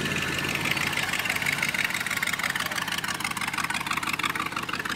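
A car engine idling with a fast, even pulse.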